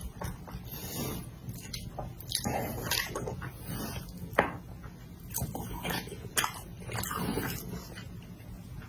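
Close-miked eating: wet chewing, biting and mouth smacks in an irregular run, with one sharp smack about four seconds in that is the loudest.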